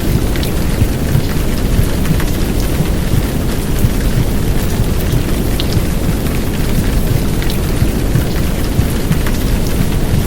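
Heavy downpour of rain mixed with womb-style white noise, a steady dense rush that is heaviest in the low end, with scattered sharper drop ticks above it.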